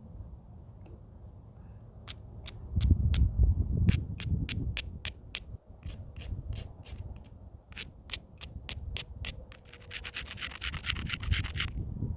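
Stone worked against the edge of a flint point: a quick run of sharp clicks, several a second, then about two seconds of dense gritty scraping near the end as the edge is ground down before more flakes are taken.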